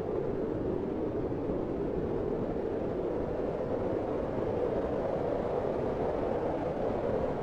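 Fireplace ambience: a steady, even low rumbling noise with no distinct pops or crackles standing out.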